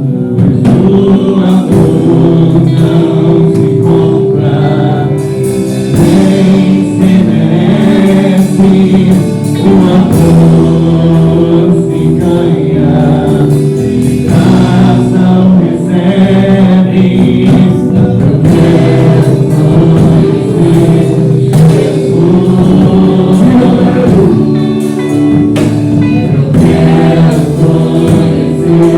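Worship music: a choir of voices singing held notes over instrumental accompaniment.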